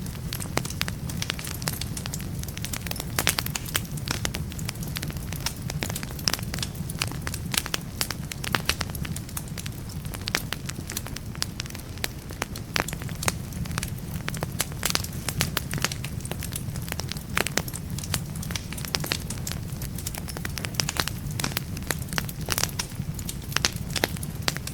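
Wood fire in a fireplace, burning logs crackling and popping with frequent sharp snaps over a steady low rumble of the flames.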